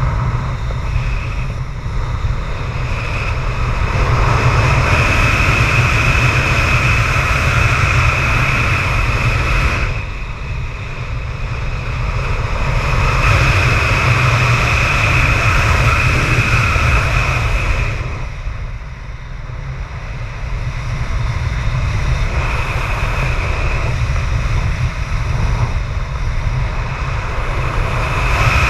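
Strong wind, about 25 m/s, buffeting the microphone with a deep rumble, over a high whistle that swells and fades several times.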